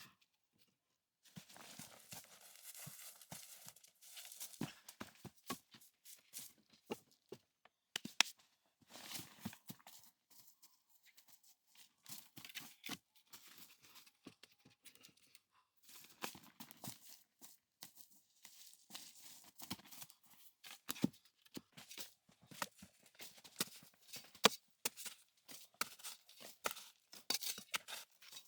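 Wood being worked and handled by hand: many irregular knocks and clicks with stretches of scraping and rustling, broken by a few short silent gaps.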